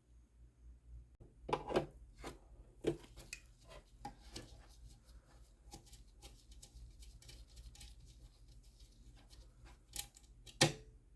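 Irregular clicks, taps and knocks of hand tools and small plastic and metal parts being handled while an espresso machine is taken apart, with a louder knock near the end, over a faint steady low hum.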